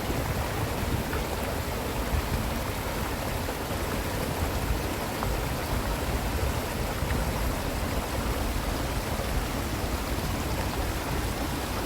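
Steady rush of running water, an even noise with a strong low rumble.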